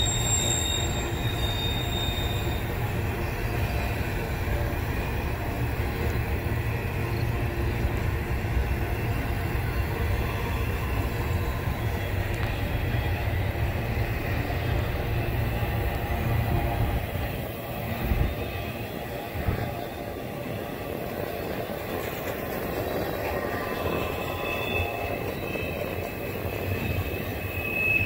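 CSX double-stack intermodal freight train rolling past, a steady rumble of its cars on the rails. A high-pitched wheel squeal sounds at the start, fading after a couple of seconds, and comes back near the end.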